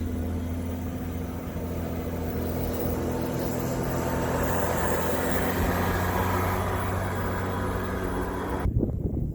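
Snowplow truck's engine running steadily as it goes by, a little louder around the middle; it cuts off suddenly near the end.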